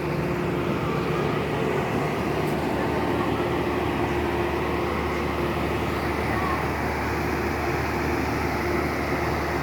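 Steady running noise of a moving train heard from inside a passenger carriage: an even rumble with a constant hum.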